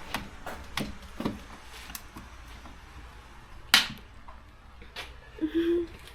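Scattered light knocks and clicks of things being handled, with one sharp knock nearly four seconds in and a brief low tone near the end.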